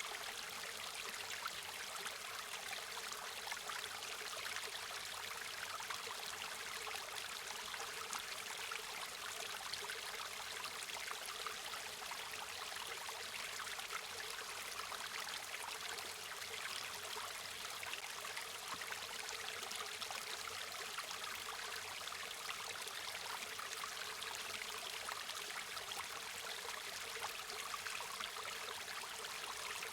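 River water flowing, a steady continuous rush with a fine splashing texture, bright and light with little deep rumble.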